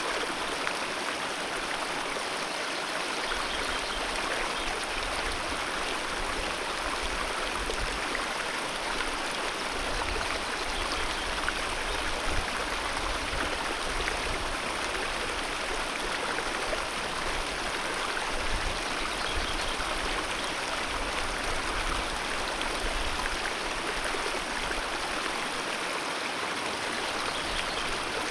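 Alpine mountain river rushing steadily over rocks, a constant even wash of water noise with no let-up.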